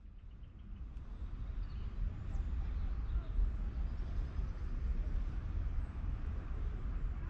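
Motorcycle on the move: a low, uneven rumble of engine and wind noise on the microphone, building over the first couple of seconds and then holding steady.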